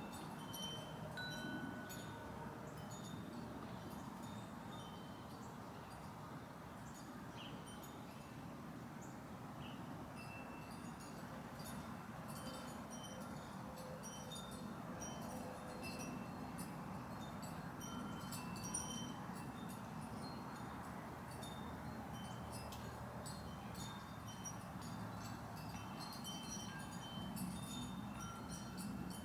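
Wind chimes ringing, a constant scatter of short high notes over a steady low background rumble.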